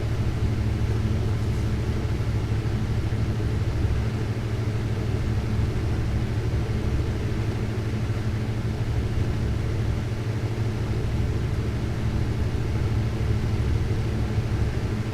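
Glassblowing torch flame burning steadily: a constant low rumble with no change in level while borosilicate glass is heated in it.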